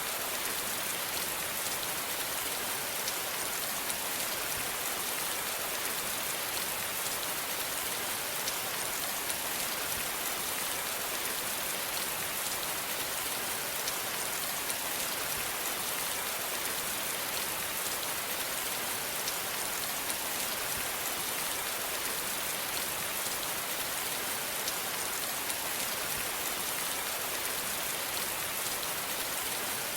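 Steady rain falling, with many fine raindrop patters on a surface and a constant hiss.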